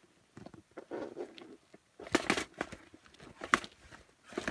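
Rummaging through fishing tackle in search of a pack of soft-plastic worms: irregular rustling and crinkling, with scattered clicks and knocks that are loudest about two seconds in and again at about three and a half seconds.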